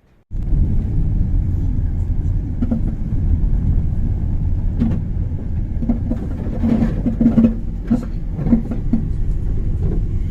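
Steady low rumble of a car driving on snow-covered roads, road and engine noise heard together, cutting in suddenly just after the start, with scattered small clicks and knocks.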